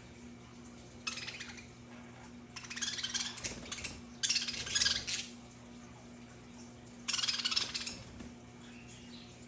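Budgerigars chattering in four short raspy bursts about a second each, over a steady low hum.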